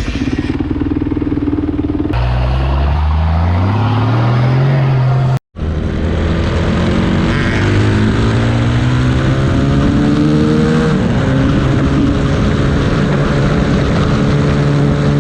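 Motor vehicle engines in three cut-together shots. First an engine holds a steady note, then one accelerates with its pitch rising. After a brief drop-out, another climbs through the revs and eases off about eleven seconds in.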